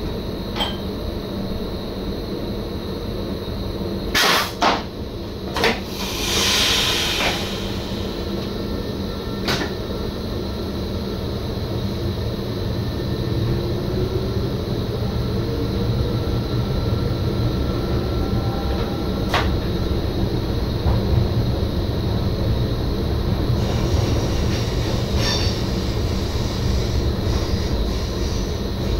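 Running noise inside the driver's cab of an NS SGM Sprinter electric multiple unit: a steady rumble of wheels on the track. Several sharp clicks come about four to six seconds in, then a short hiss, and the running noise grows louder through the second half.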